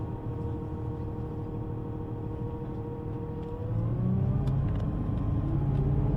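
City bus drivetrain running, heard from inside the bus, with a steady tone over a low rumble. About three and a half seconds in, the pitch rises and a deeper rumble grows louder as the bus speeds up.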